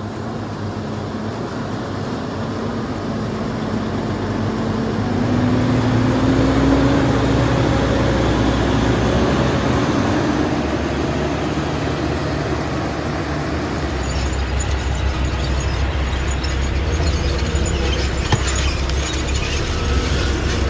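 Log truck's diesel engine pulling under load, its pitch climbing over several seconds as it accelerates, over a steady low rumble. There are scattered rattles and ticks in the second half.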